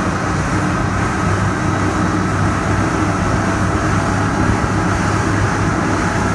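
Steady, unbroken mechanical drone of a motor yacht's engines running, a low hum with a faint higher whine above it.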